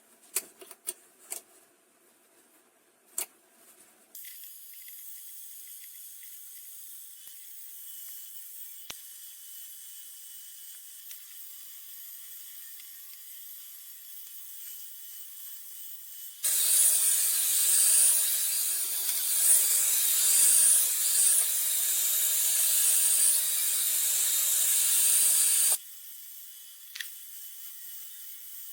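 Hot air brush hair dryer blowing, a steady airy hiss. It starts after a few clicks and about four seconds of near silence, gets much louder for about nine seconds in the middle, then drops back to the quieter level, with one more click near the end.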